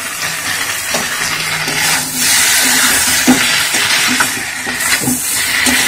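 Cauliflower and potato pieces sizzling as they fry in ghee in a metal kadai, the sizzle growing louder about two seconds in, with the scrape of a spatula against the pan as the pieces are stirred.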